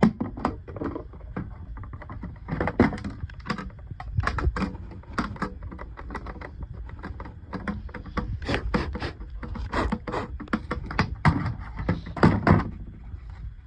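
Irregular knocks, taps and clatter of parts being handled and fitted into a kayak, several sharp knocks a second at times, over a low handling rumble.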